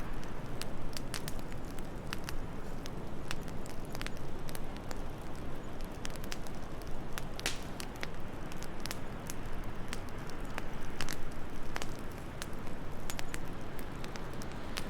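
Wood fire in a fireplace crackling, with frequent irregular sharp pops and snaps over a steady low rushing noise.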